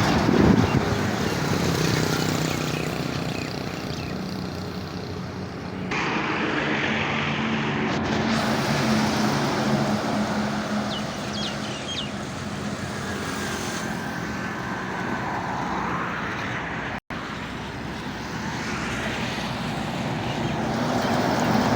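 Heavy truck engine running with road and traffic noise, swelling and fading as vehicles pass; the sound cuts abruptly twice, about 6 and 17 seconds in.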